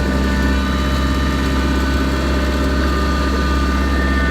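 Kubota tractor engine running steadily: a constant low drone with a thin, steady whine above it.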